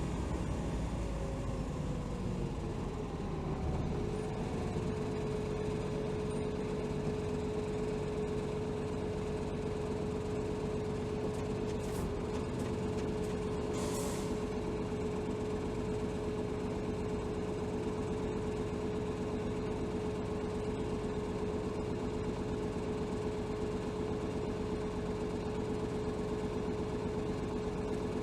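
Hino Rainbow HR city bus heard from inside the cabin, with its J07E diesel running. A whine falls in pitch as the bus slows over the first few seconds, then it stands with the engine idling and a steady whine. About halfway through, a click is followed by a short hiss of air from the air brake system.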